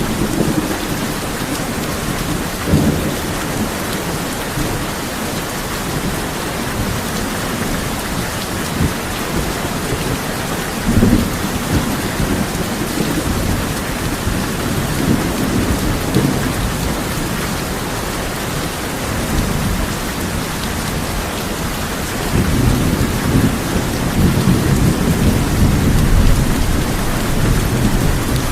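Steady heavy rain drumming on a tin roof, with thunder rumbling low several times; the longest, loudest roll of thunder comes near the end.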